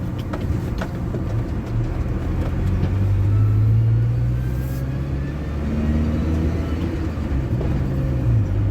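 ZMZ-405 petrol engine of a GAZ Gazelle running under way, its revs rising and falling a couple of times, with a few sharp knocks near the start. The knocking is typical of the upper timing chain after its hydraulic tensioner was replaced.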